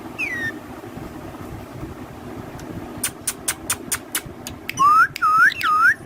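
A pet parrot calling: a short falling call at the start, a quick run of about seven sharp clicks about halfway through, then three loud looping whistles near the end.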